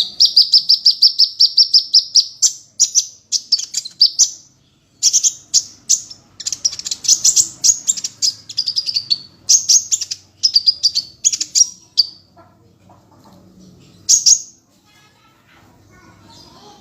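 A small songbird singing fast, high chirping trills. A long rapid trill opens, followed by a string of short trilled phrases that stops about twelve seconds in, with one last brief burst a couple of seconds later.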